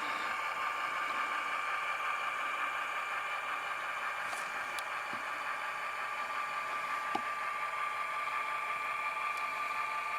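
Model locomotive's Tsunami sound decoder playing a diesel engine idling through its small speaker: a steady, thin hum with a constant high tone and no deep bass.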